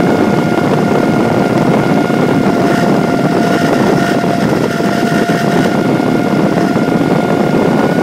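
Nissan 200SX S13's CA18DET engine running at a steady speed with a constant whine over the engine noise: the strange noise that appeared after a timing belt change.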